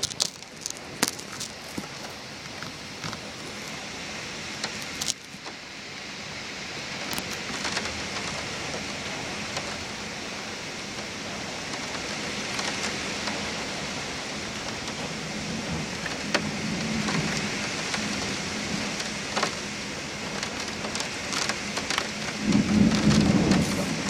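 Heavy rain falling steadily in a thunderstorm, with scattered sharp drop ticks close by. Low thunder rumbles about fifteen seconds in and again, louder, near the end.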